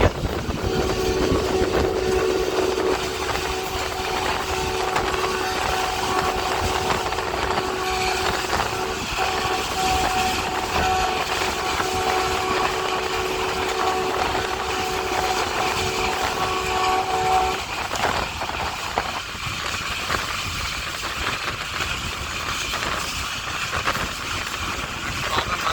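Diesel locomotive air horn sounding one long chord of several tones, held for about seventeen seconds and then cutting off abruptly. It plays over the steady running noise of the moving train.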